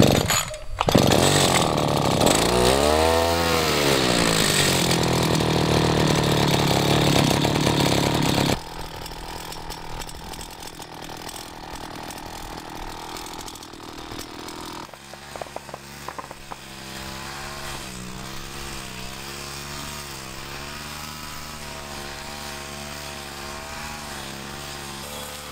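Brush cutter motor running. About three seconds in it speeds up and slows down again, then it runs loudly and steadily. An abrupt cut about eight seconds in leaves it quieter, and from about fifteen seconds it settles into a lower, steady hum with a slightly wavering pitch.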